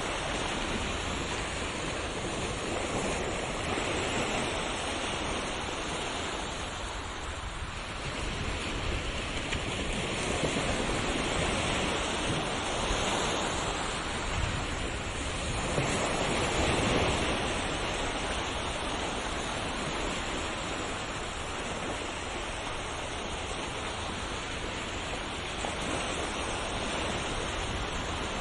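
Ocean waves breaking and washing on a shore, a continuous surf hiss that swells and eases every few seconds, loudest around the middle.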